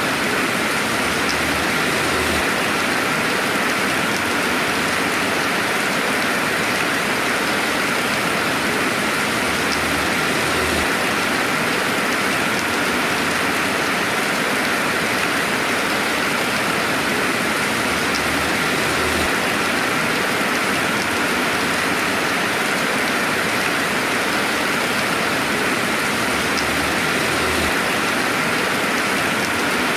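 Steady rainfall, an even hiss of rain with no thunder. A faint low rumble comes back about every eight seconds.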